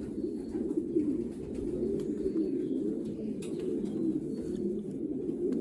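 Many racing pigeons cooing together, a steady low chorus.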